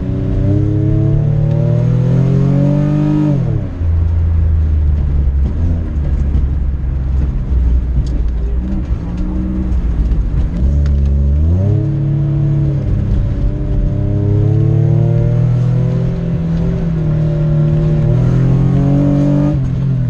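A car engine being driven hard through an autocross course. It revs up, drops off sharply a few seconds in and runs low for several seconds, then revs up again and holds before falling away near the end.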